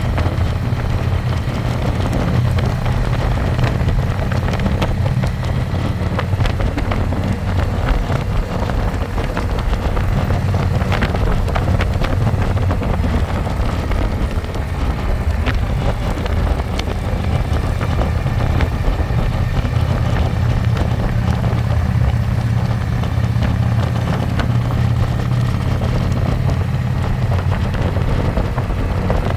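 Harley-Davidson Electra Glide's V-twin engine running steadily while riding, heard from the passenger seat, with wind rushing over the microphone.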